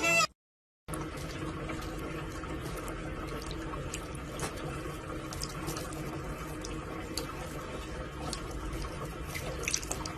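Water running steadily, starting about a second in, with a few faint ticks over it.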